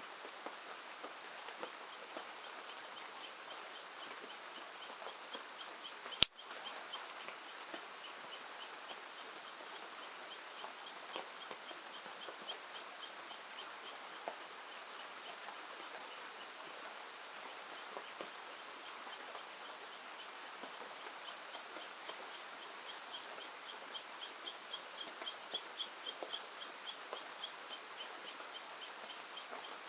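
Steady rain with a high, evenly repeated chirping call from an animal, about three chirps a second, going on through most of the stretch and strongest near the end. A single sharp click about six seconds in.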